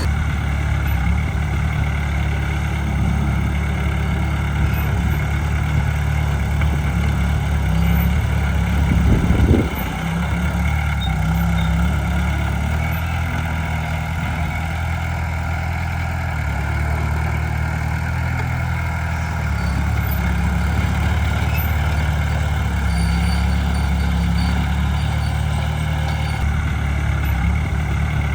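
Heavy diesel engine of earthmoving machinery running steadily, with a brief louder surge about nine seconds in.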